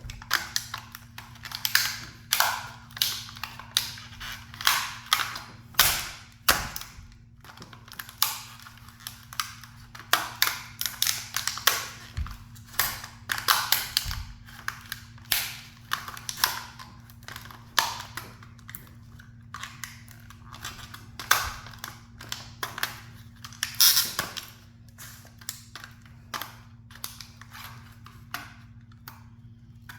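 Irregular cracking, snapping and crunching as a small toy sports car is crushed under a high heel, the snaps coming in quick clusters with a few louder cracks. A steady low hum runs underneath.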